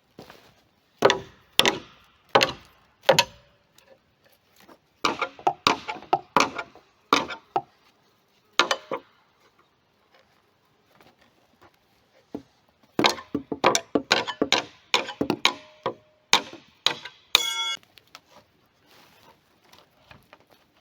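Repeated sharp blows of a tool on wood, in irregular runs: four evenly spaced strikes, then quicker clusters of blows, with a short squeak near the end.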